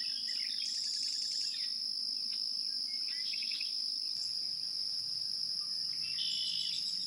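Nature ambience: a steady high-pitched insect trill, cricket-like, with a bird chirping briefly three times, near the start, in the middle and near the end.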